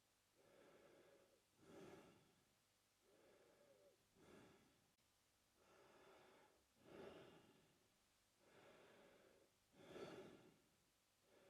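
A man breathing slowly and evenly through his mouth, quietly. There are about four full breath cycles, each a softer, longer breath followed by a louder, shorter one.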